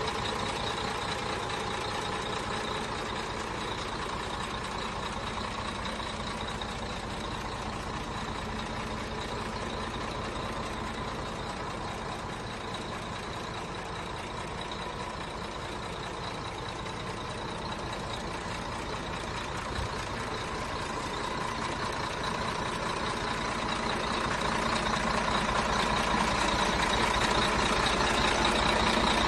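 Heavy truck's diesel engine idling steadily, growing louder over the last several seconds.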